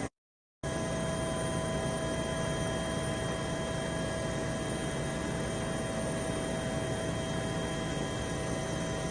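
Aircraft in flight: a steady engine and airflow noise with several steady whining tones, cut off completely for about half a second just after the start before resuming unchanged.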